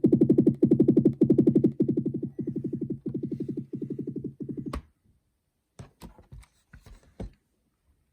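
16-inch MacBook Pro's built-in speakers giving out a rapid, stuttering, low-pitched buzz, pulsing about a dozen times a second: a speaker audio fault that the owner has found on two units running macOS 10.15.3. The buzz cuts off with a sharp click a little past halfway, and a few faint clicks and knocks follow.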